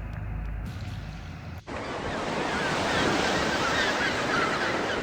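Electronic background music with a deep bass ends, and about a second and a half in the sound cuts to steady waves and wind noise at the water's edge, with many short high chirps over it.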